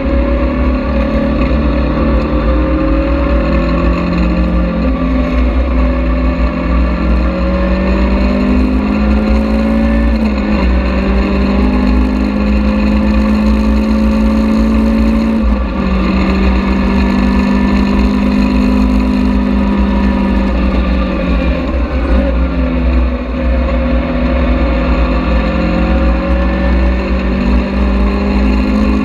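Caterham Seven engine heard from inside its open cockpit, pulling hard at speed on track. The pitch climbs steadily and drops sharply about three times, with a constant low wind rumble.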